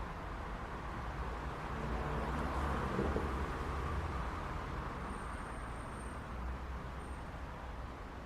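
City street traffic: a steady wash of road noise and engine rumble, swelling as a vehicle passes about two to four seconds in, then easing back.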